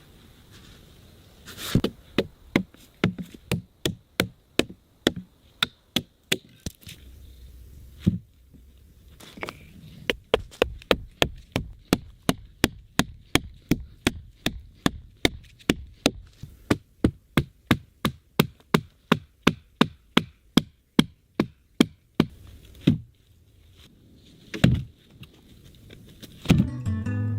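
Hand hammer blows on wood: a few uneven strikes, then a long steady run of about two blows a second, and a last single blow. Acoustic guitar music comes in near the end.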